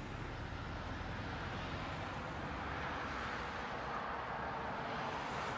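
Steady driving noise of a car on the move: a low engine hum under tyre and road rumble, swelling slightly midway.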